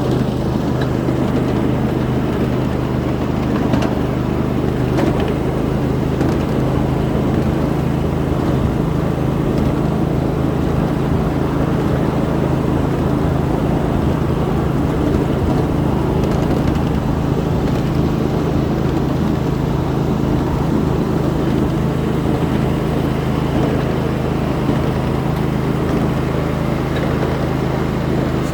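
A 7.5-inch gauge ride-on miniature train running steadily along the track: a steady low hum from the locomotive under a constant rattle of wheels and cars on the rails.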